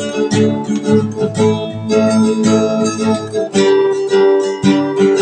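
Acoustic guitar strummed, playing the instrumental intro of a song with a regular rhythm.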